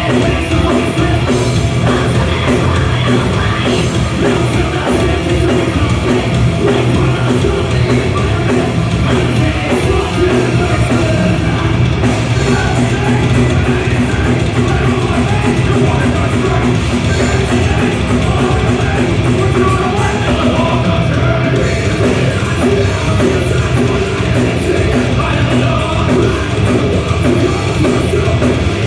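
Loud, dense hard rock music in a heavy punk or metal style, with yelled vocals.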